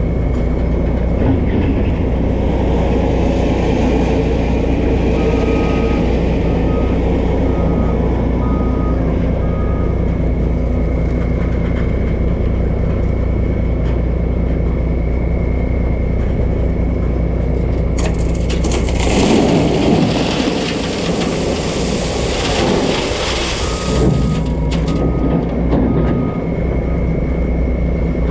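Peterbilt 377 dump truck driving on the highway, its diesel engine running steadily as heard from inside the cab. Two runs of short, evenly spaced beeps sound, and about two-thirds through a louder rushing noise lasts several seconds.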